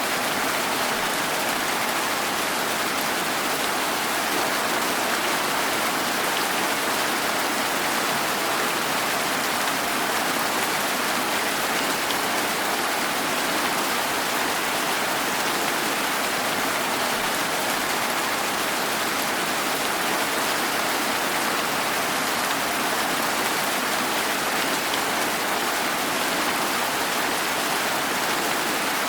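Steady rain: an even, unbroken hiss of falling rain with no thunder and no separate drips standing out.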